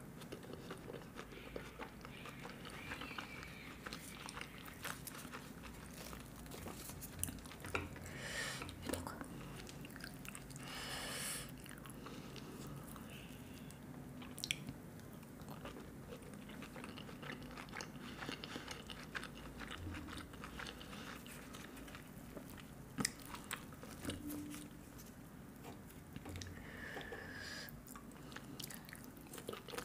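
Close-miked eating: a person chews and bites mouthfuls of flatbread scooped with green curry, making a steady run of small wet mouth clicks. A few louder bites come about eight, eleven and twenty-three seconds in.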